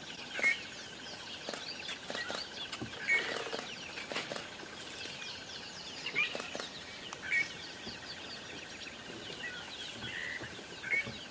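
A flock of birds chirping and twittering continuously, with a steady trill underneath and about five louder, sharper calls standing out.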